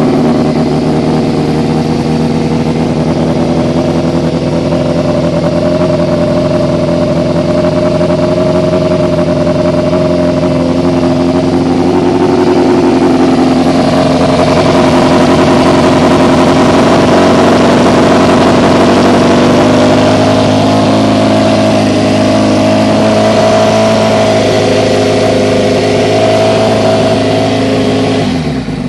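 Kawasaki ZX-6E's inline-four engine idling steadily shortly after a cold start, its exhaust coming through stock mufflers cut down and gutted into short stubby cans. Near the end the engine note drops.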